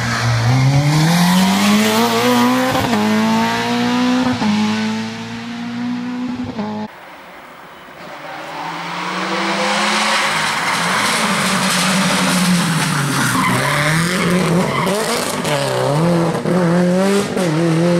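Rally car engine accelerating hard, rising in pitch and breaking twice at quick upshifts, then cutting off abruptly. A rally car engine then revs up and down repeatedly over loud tyre noise, with the car sliding.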